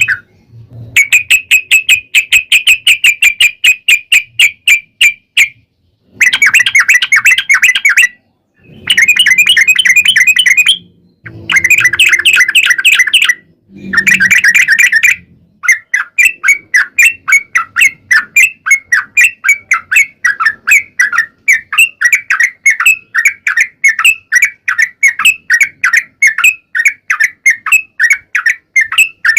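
Yellow-vented bulbul (trucuk) singing in rapid runs of repeated notes: several bursts of a few seconds each with short breaks, then, about halfway through, one long unbroken run of evenly spaced notes, about three a second.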